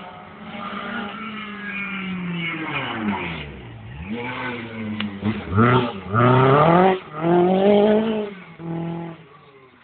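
Rally car engine revving hard as the car accelerates through the gears: the pitch sinks, then climbs in several quick rising runs, each cut short at a gear change, loudest about six to eight seconds in.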